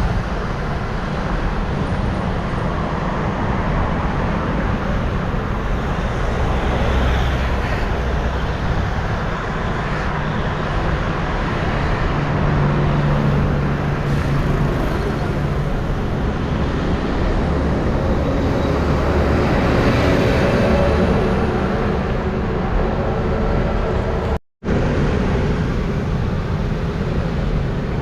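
Road traffic passing, with vehicles swelling up and fading away twice, and a steady low rumble of wind on the microphone throughout. The sound cuts out briefly near the end.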